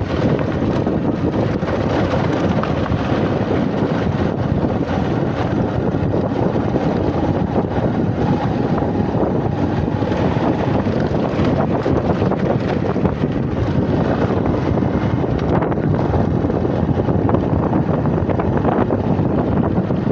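Bajaj Platina single-cylinder motorcycle engine running while riding, a steady engine note with wind buffeting the microphone.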